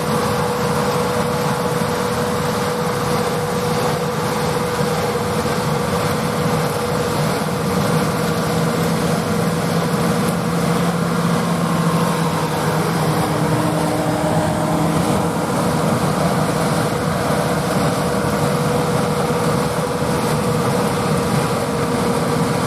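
John Deere tractor and pull-type Amadas peanut picker running steadily during harvest: a constant engine and machinery drone with a steady hum throughout.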